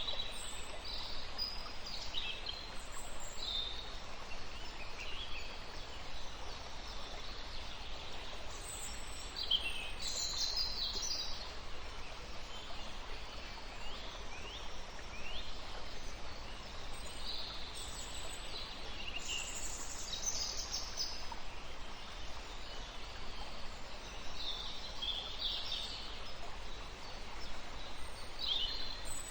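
Birds chirping in short, high calls scattered throughout, over a steady background hiss and low rumble.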